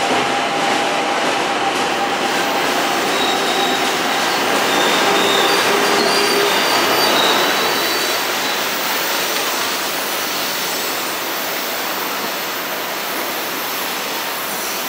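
SuperVia electric commuter train running away along the track out of the station, with steady wheel-and-rail noise and faint thin wheel squeal. The noise eases off in the second half as the train draws away.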